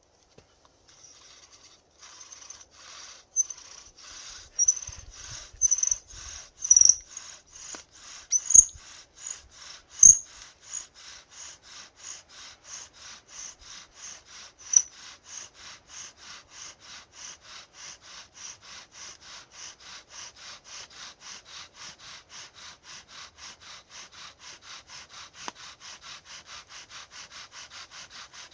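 Friction-fire drill: a castor-wood spindle spun back and forth in a cherry-wood hearth board, wood rubbing on wood in a steady run of strokes at about three a second. The first few seconds are louder and uneven with some squeaks, then the strokes settle into an even rhythm.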